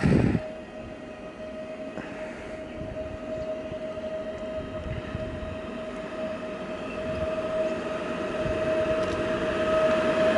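An electric train approaching on the rails, with a steady whine that grows gradually louder. A short, loud low thump comes right at the start.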